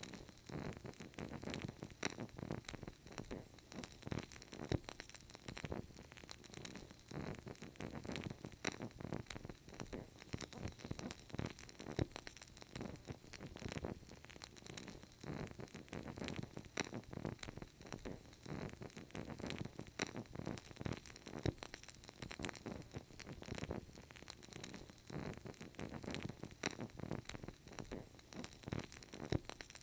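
Burning candle, its flame crackling softly with many small irregular pops over a faint low rustle.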